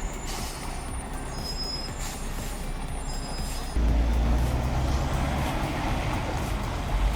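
Heavy log truck's diesel engine running, with thin high-pitched squeals over it for the first few seconds. About four seconds in, the engine suddenly gets much louder and deeper and stays so.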